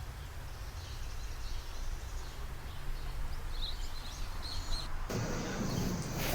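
Small birds chirping faintly over a steady low rumble. About five seconds in, the sound changes abruptly to a louder, fuller noise.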